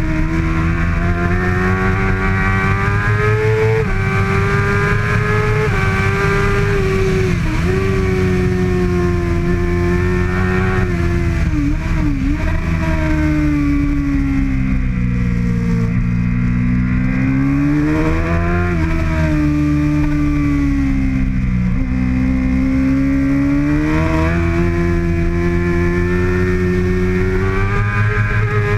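A 2013 Kawasaki ZX-6R's 636 cc inline-four at race pace, the engine pitch climbing and falling over and over as the bike accelerates and slows through corners, with brief sharp dips at gear changes.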